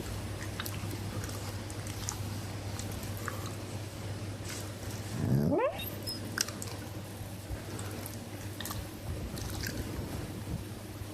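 Shiba Inu making small wet mouth sounds, licking and chewing smacks, over a steady low hum. About halfway through comes one short rising squeal.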